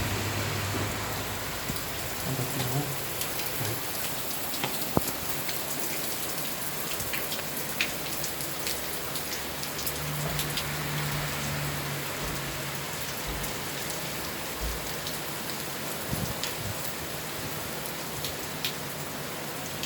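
Heavy thunderstorm downpour: a steady hiss of rain, with frequent sharp ticks of drops striking surfaces close by.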